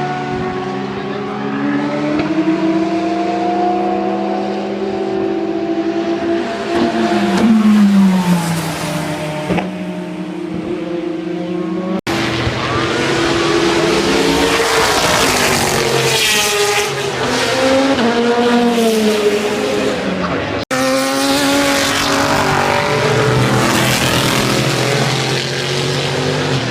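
Endurance race car engines running at speed. Several cars go by with the usual drop in pitch as they pass, and the engine notes rise and fall with revving and gear changes. The sound breaks off abruptly twice, at about 12 and 21 seconds, as the scene changes.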